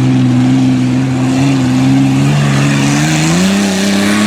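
A tough-truck's engine at hard throttle, its revs held high and steady, then climbing further about three seconds in.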